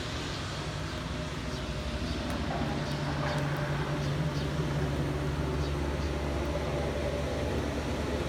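Rain ambience: a steady hiss of rain with a few faint drip ticks, under a low engine hum from vehicles that grows louder about two and a half seconds in.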